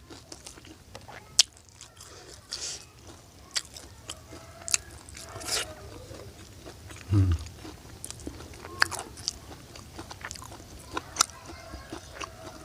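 Close-up chewing and biting of crisp fried food, with irregular sharp crunches and mouth clicks. A short low sound about seven seconds in.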